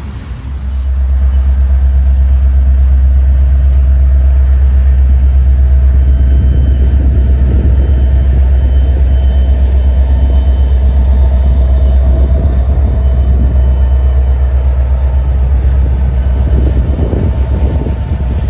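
Freight train of covered hopper cars rolling past, with a loud, steady low rumble and some wheel clatter near the end.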